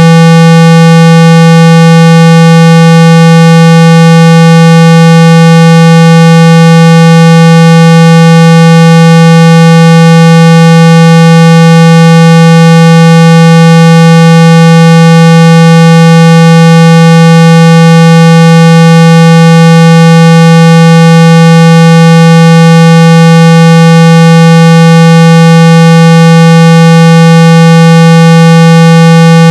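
A very loud, steady 165 Hz tone with many evenly spaced overtones above it, held without change. It is a speaker-cleaning tone, played to shake water and dust out of an iPhone speaker.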